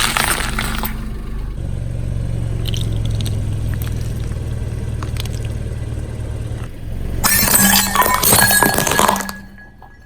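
Car tyre rolling over and crushing brittle objects: a short crunch at the start, then the car's engine running low and steady, then a loud crackling, shattering crunch about seven seconds in that lasts about two seconds.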